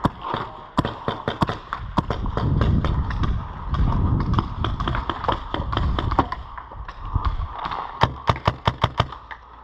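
Paintball markers firing: scattered sharp pops, then a quick string of about six or seven shots near the end. Under the shots a low rumble of handling and movement on the body-worn camera rises and falls through the middle.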